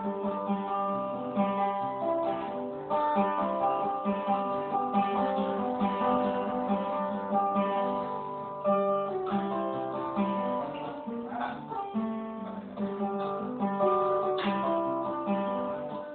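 Solo acoustic guitar playing an instrumental break, fingerpicked and strummed, recorded live on a phone.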